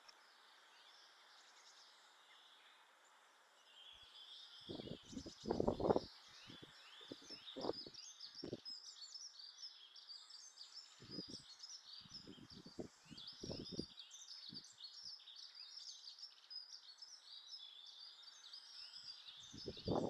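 Small birds chirping rapidly and continuously from about four seconds in, with scattered low knocks and bumps, the loudest about six seconds in.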